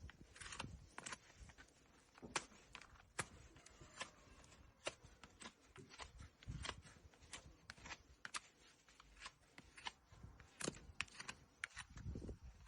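Short crisp clicks and snips of farrier's tools cutting into a horse's hoof, irregular at about one or two a second. Near the end a low thud and rumble come in.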